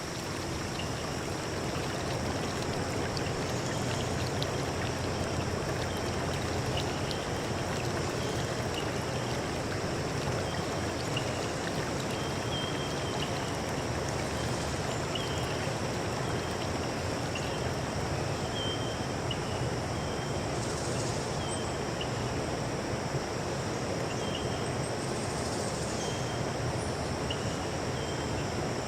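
Forest stream flowing steadily, with short high chirps repeating about once a second and a faint steady high whine above the water.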